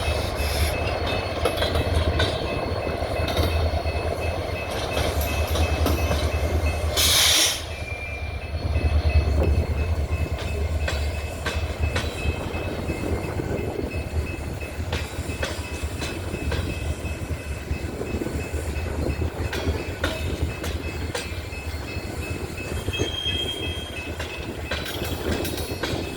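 Coal train's freight cars rolling past with a steady low rumble and frequent clicks of wheels over the rail joints. There is a short burst of hiss about seven seconds in and a brief wheel squeal near the end.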